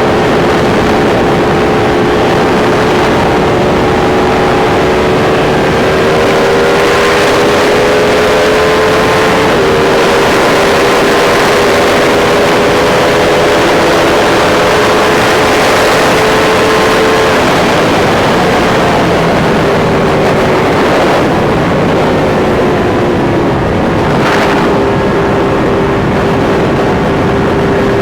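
Sport motorcycle engine running at steady highway cruising speed, its note drifting slightly up and down, over a constant rush of riding wind.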